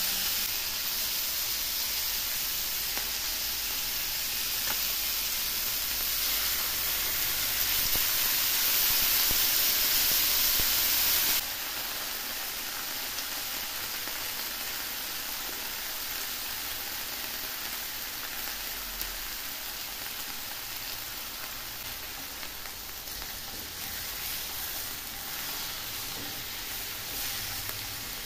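Pork chops frying in oil in a pan, with a steady sizzle. The sizzle is louder for about the first eleven seconds, then drops suddenly to a quieter level.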